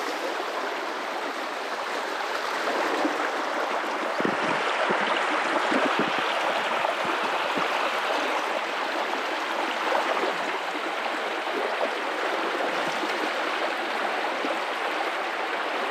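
River water running and babbling over rocks in a steady rush, swelling slightly now and then.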